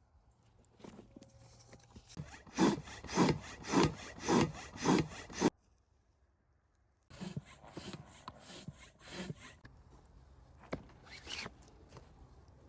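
A hand saw cutting wood: about six even back-and-forth strokes, roughly 0.6 s apart, stopping abruptly about halfway through. Quieter, irregular rubbing and knocks of wood follow.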